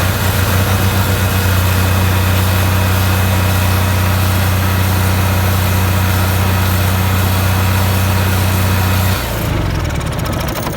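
Onan 4000 RV generator engine running steadily with a strong low hum, then shutting off about nine seconds in and winding down. It keeps running only while its start switch is held and dies when the switch is let go, a fault that began after an oil and filter change.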